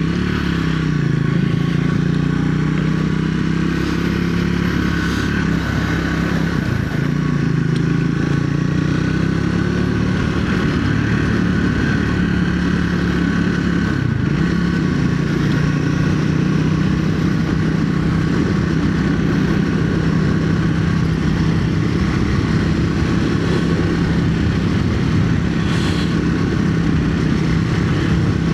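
2025 Triumph Speed 400's single-cylinder engine running under way, with the exhaust thump typical of a single. Its pitch shifts up and down in the first few seconds and once or twice more, then mostly holds steady at a cruise.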